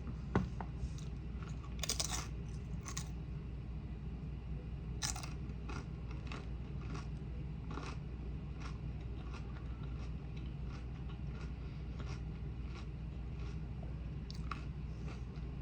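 Close-up chewing of crunchy food, most likely tortilla chips: a few sharp crunches about two, three and five seconds in, then a run of softer chewing clicks.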